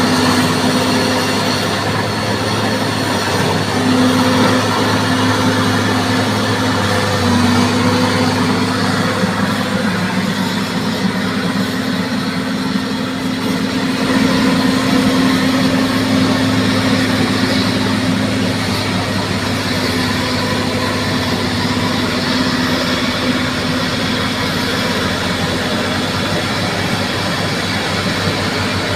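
Bulldozer's diesel engine running steadily, a continuous drone whose pitch shifts slightly now and then.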